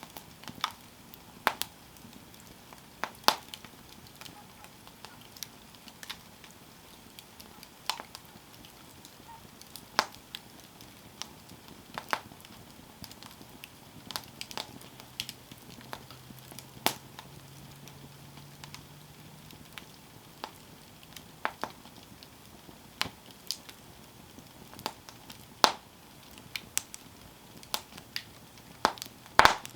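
Campfire burning, wood crackling with irregular sharp pops, a few every couple of seconds, over a faint steady hiss.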